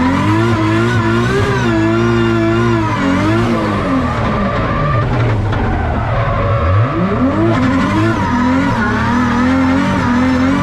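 2JZ-GTE-swapped Toyota GR Supra drift car's engine held high and wavering under throttle while drifting, with tyres squealing. The engine drops off after about four seconds, then revs sharply back up about seven seconds in.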